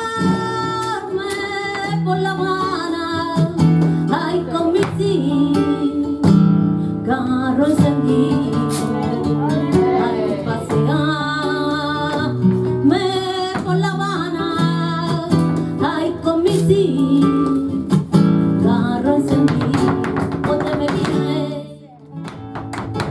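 Flamenco guajira played live: acoustic flamenco guitar with a singer holding long, wavering sung lines, and sharp percussive clicks throughout. The music drops away briefly near the end before the clicks resume.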